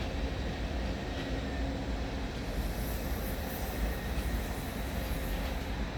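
ÖBB class 1116 Taurus electric locomotive moving through the station with a steady low rumble and faint hum, and a high hiss that sets in about halfway through and stops near the end.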